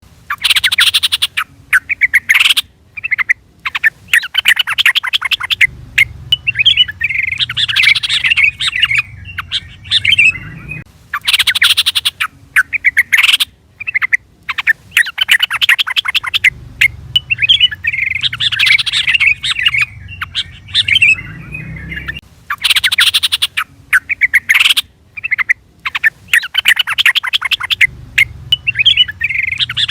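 Yellow-vented bulbul (trucukan) calling: loud bursts of rapid, bubbly chattering phrases with short gaps between them. The same sequence of phrases repeats about every eleven seconds, a looped lure call.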